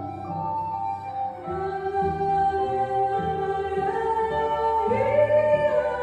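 Improvised music by a small ensemble: sustained, overlapping held notes with singing. About five seconds in, a voice or instrument slides up into a louder held note.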